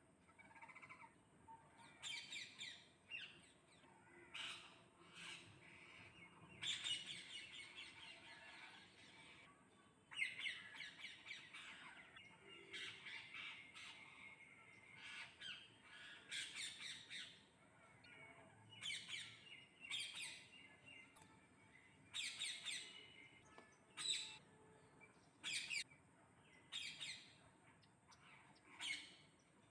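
Parrots squawking: many short calls in uneven clusters, a few loud ones standing out, with brief pauses between.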